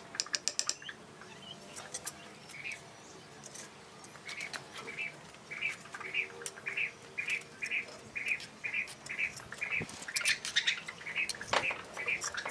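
A small bird chirping over and over, about two short chirps a second. Mixed with it are sharp clicks and scrapes of a steel trowel working wet mortar against brick, busiest near the end.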